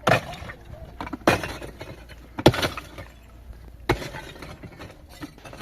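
Four heavy blows, about a second or more apart, each followed by breaking and crackling debris: demolition work knocking down part of a house.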